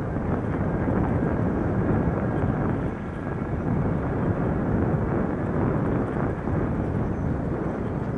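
Wind buffeting the microphone of a rider cycling along, a steady, uneven rumble.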